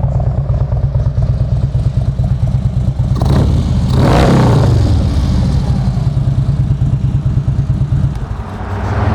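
Harley-Davidson Twin Cam 103 V-twin running at idle with a steady low pulse, revved up and back down once about four seconds in.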